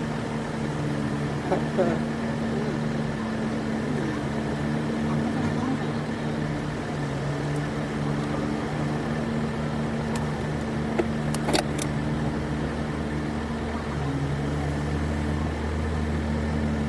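Truck engine running steadily with a low, even hum, and two sharp clicks about eleven seconds in.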